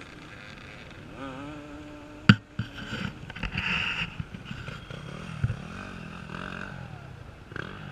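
Off-road racing motorcycle engines revving up and down as bikes pick their way through a log section, with one sharp knock a little over two seconds in.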